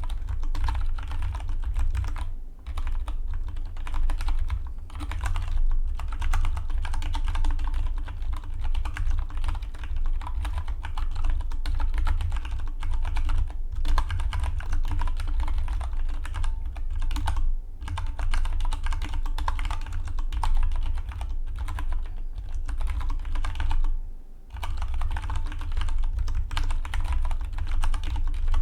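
Fast, continuous typing on a Dygma Defy split mechanical keyboard, a dense run of key clicks with a few short pauses between bursts.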